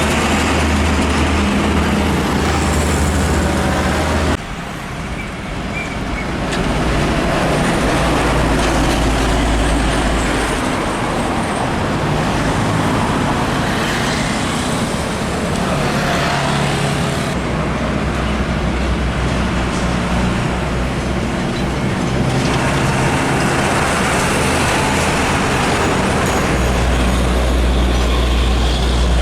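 Heavy diesel trucks passing one after another in traffic, engines running low and steady with road noise. The sound drops suddenly about four seconds in, then builds back up.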